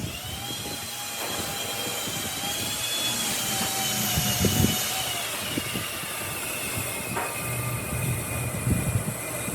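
Electric woodworking power tool running with a high whine over a steady hiss, starting suddenly; the whine drops slightly in pitch around the middle.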